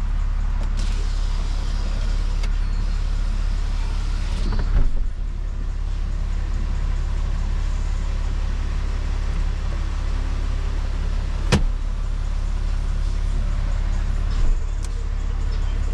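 6.7L Cummins inline-six turbodiesel of a 2013 Dodge 2500 pickup idling steadily, with three short clicks over the running engine.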